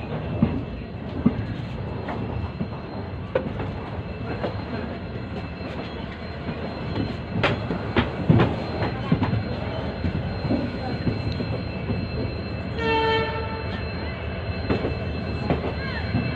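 Indian Railways passenger train running: a steady rumble with irregular clacks and knocks of the wheels over rail joints. A brief steady horn note sounds about 13 seconds in.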